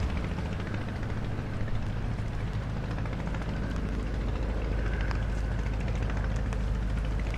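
Strong wind buffeting the microphone, a steady low rumble with an even hiss above it.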